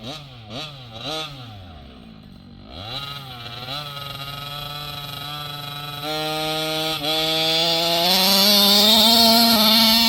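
70cc two-stroke engine of a large-scale petrol RC car revving, first in quick rising and falling bursts, then holding a steady high-revving run that steps up in pitch twice and is loudest near the end.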